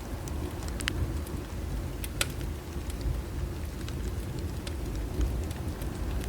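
Wood bonfire crackling, with sharp pops scattered irregularly over a steady low rumble of the flames.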